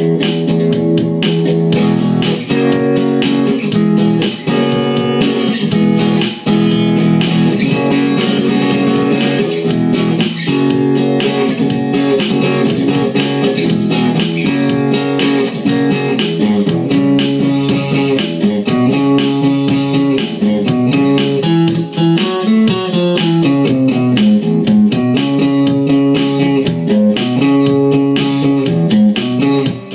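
Blues played on electric guitar: a steady run of plucked notes over a repeating low bass line.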